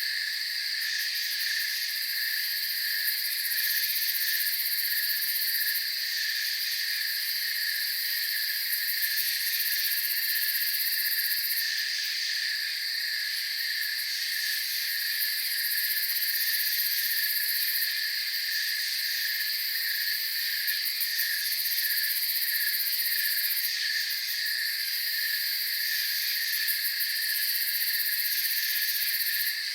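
A dense night chorus of crickets and other insects: several steady trills layered at different pitches, the lowest one pulsing evenly and without a break.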